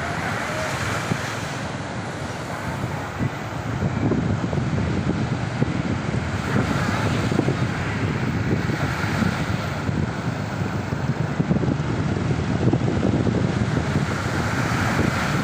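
Ocean surf washing on a beach, with wind buffeting the microphone in a low rumble; the surf grows louder about four seconds in.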